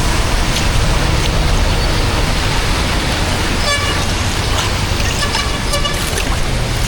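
Steady loud rush of water flowing, with a vehicle horn tooting in short beeps about halfway through and again about a second and a half later.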